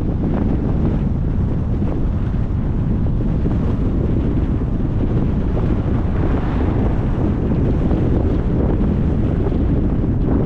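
Steady, loud wind rushing over the microphone of a moving car, over a low rumble of the car and road.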